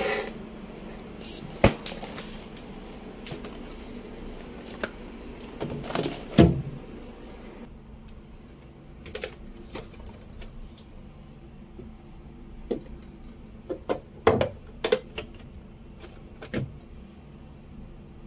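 Items and containers being set onto the shelves and into the door of a refrigerator: irregular knocks and clatters, loudest about six and fourteen seconds in, over a low steady hum.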